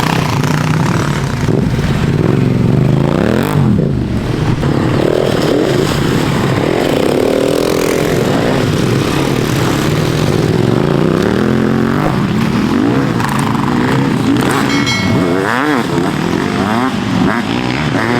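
Off-road motorcycle engine running hard, revving up and dropping back again and again as the rider works through the throttle and gears.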